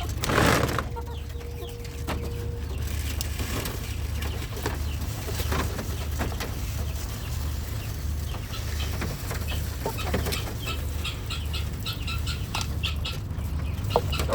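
Chickens clucking around feed, with a loud flurry of wing flapping about half a second in. Short calls come thick and fast near the end.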